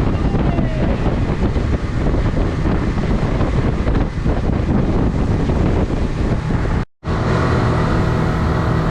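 Wind buffeting the microphone over the running motor and water rush of a tri-toon pontoon boat under way. After a cut about seven seconds in, the outboard engine's steady hum comes through more clearly, with less wind.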